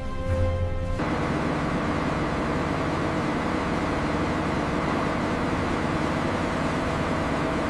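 Music ends about a second in and gives way to a steady rushing noise with a faint low hum.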